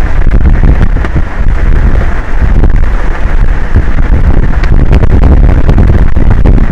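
Strong wind buffeting the microphone of an offshore tower's camera: a loud, continuous rumble, deepest at the bottom, with gusty swells and no pause.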